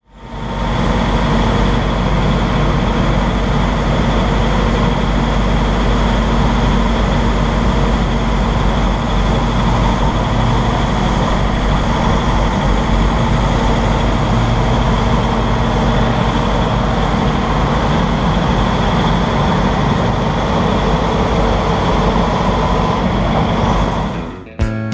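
Heavy truck engine running steadily, a loud, even rumble that cuts off suddenly near the end.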